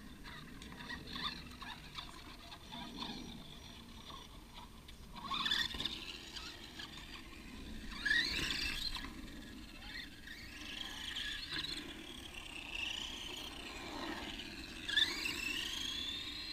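Electric RC car motor whining in several short bursts, each one rising in pitch as the car speeds up, the last running out near the end.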